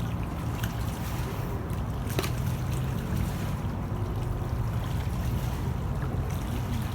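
A steady low engine drone, with one sharp click about two seconds in.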